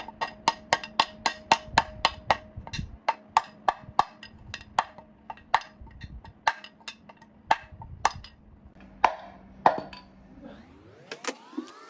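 A long series of sharp taps, about four a second at first, then slower and less even, over a faint steady hum. Near the end comes one tone that rises and then falls.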